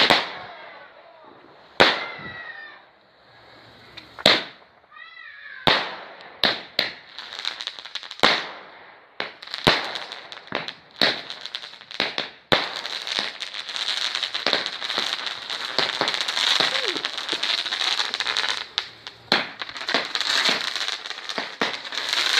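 Fireworks going off: about a dozen sharp bangs in the first half, some followed by falling whistles, then dense, steady crackling through the second half.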